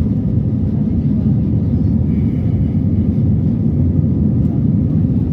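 Airliner cabin noise: a steady, loud low rumble of the jet engines and airflow heard from inside the passenger cabin.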